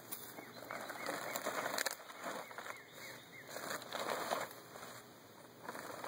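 Birds chirping in many short, repeated arched notes, with intermittent crinkling of a plastic tarp being held up by hand.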